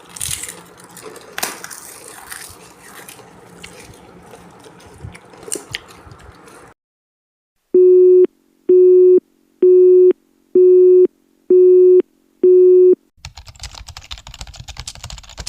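Six evenly spaced electronic beeps, each about half a second on one steady low tone and about a second apart, like a telephone busy signal. Before them comes crunchy clatter that cuts off abruptly, and a fresh, typing-like clatter starts near the end.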